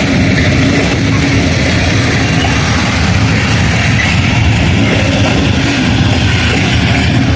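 A train running past close by: a loud, steady rumble with a constant engine hum.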